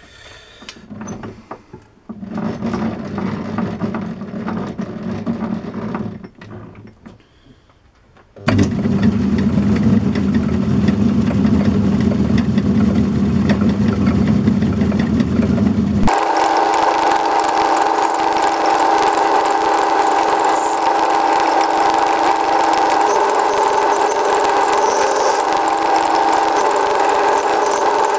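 A metalworking lathe starts up after a few seconds of handling clicks and runs steadily, taking a skim cut on a steel part. About halfway through, the sound changes abruptly from a low hum to a higher, steady whine with several tones.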